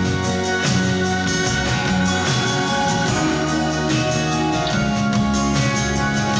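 Live band playing an instrumental passage between verses, led by guitar, with steady, sustained notes.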